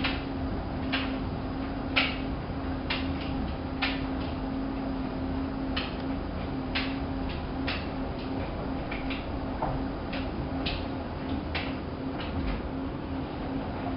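Hanseatic HWM814A3D front-loading washing machine running its drum, with a steady motor hum and irregular sharp clicks and knocks from the turning drum and laundry, about one a second.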